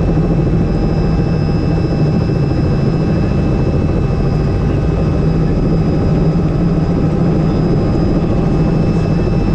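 Helicopter in flight: a steady, loud rotor and engine noise, heaviest in the low range, with a thin high whine held steady above it.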